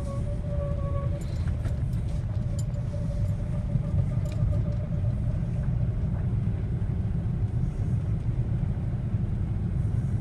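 Hyundai Creta 4WD driving at low speed, heard from inside the cabin: a steady low rumble of engine and road, with a thin high squeal from underneath that fades out about two-thirds of the way through. It is the cold-weather squeak that was traced to a faulty propeller-shaft center support bearing.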